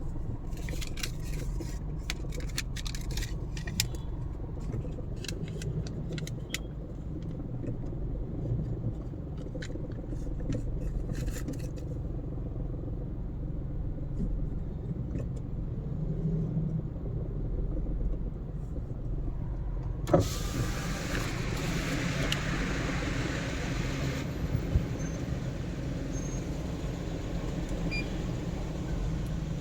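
Car interior road noise while driving at speed: a steady low rumble of tyres and engine. Light scattered clicks sound during the first part. About two-thirds of the way through, a sharp click is followed by a louder hiss that eases off after a few seconds.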